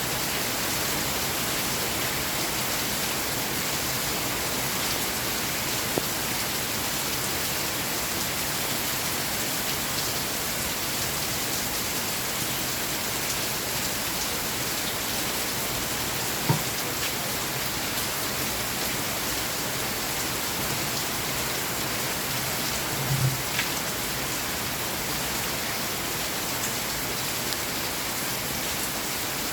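Steady rain falling, a dense even patter of drops on surfaces. A few single louder drops or taps stand out, one about halfway through and two close together about three-quarters of the way through.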